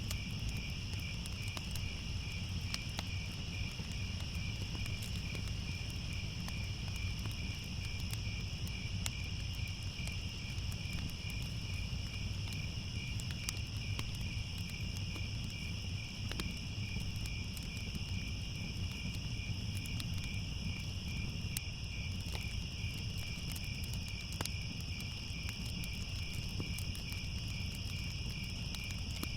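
Crickets chirping steadily in a continuous, fast-pulsing chorus, over a low rumble with scattered faint crackles.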